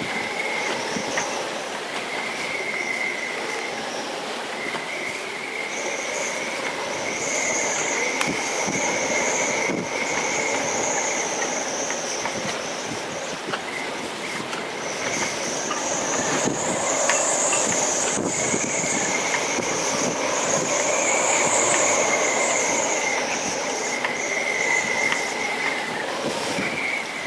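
Storm wind rushing steadily, with a high, wavering whistle that comes and goes and swells louder in the second half.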